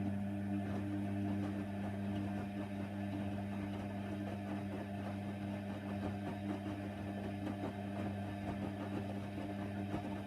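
Hoover Nextra washer dryer's drain pump running with a steady electric hum and a crackle of water and air passing through, then cutting off suddenly near the end.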